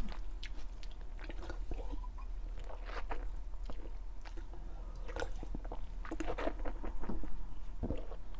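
A mouthful of crisp raw lettuce being chewed: irregular soft crunches and mouth clicks, busier a little past halfway.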